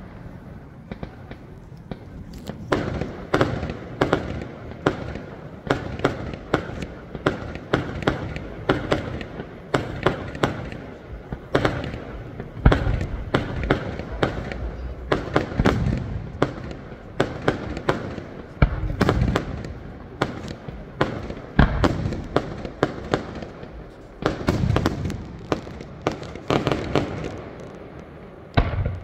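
Aerial fireworks display: shells bursting in quick, irregular succession, many sharp bangs and crackles with a few heavier booms among them.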